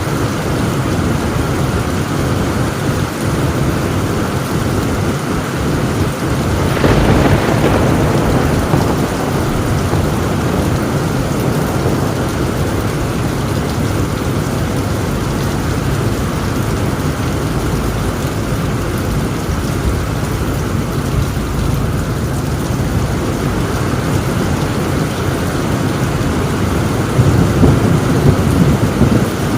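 Heavy rain drumming steadily on a tin roof, with a louder thunder rumble about seven seconds in and another near the end.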